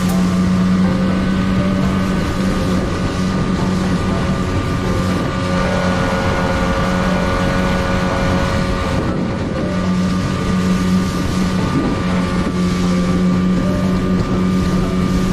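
Boat engine running steadily with an even hum, with wind on the microphone.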